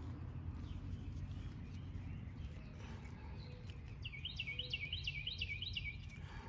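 A songbird sings a quick run of about seven repeated high chirping notes, starting about four seconds in and lasting some two seconds, over a steady low outdoor rumble.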